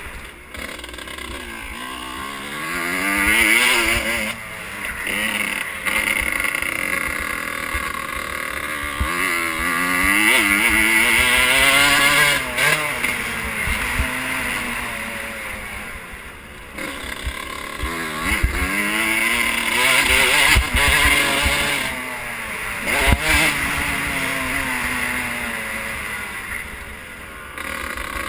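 Motocross bike engine revving hard, its pitch climbing and dropping over and over through acceleration, gear changes and braking. A few sharp thumps come through from the bumps.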